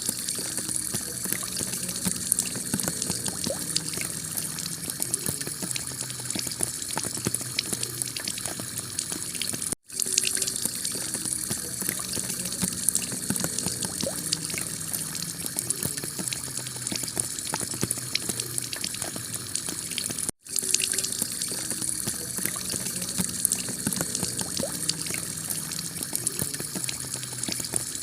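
Heavy rain pouring steadily onto a clay tile roof, a dense patter of drops. The sound cuts out for an instant twice, about ten and twenty seconds in.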